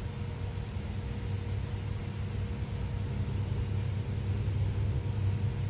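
Low rumble of an approaching freight train's diesel locomotives, growing slowly louder, with a faint steady hum above it.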